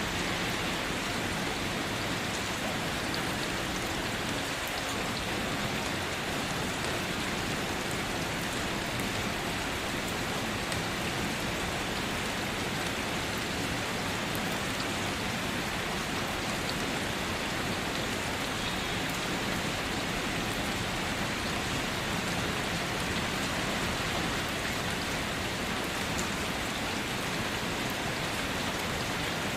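Steady rain falling: an even, unbroken hiss with scattered raindrop ticks, no thunder.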